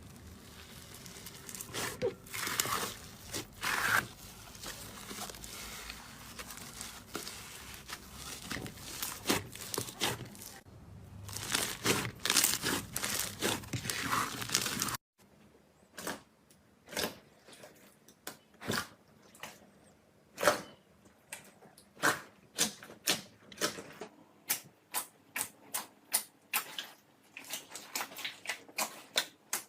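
Slime being squeezed and worked by hand: crackly, crunchy squishing at first. After a sudden cut about halfway through comes a run of separate sharp popping clicks, about one to two a second, coming faster near the end.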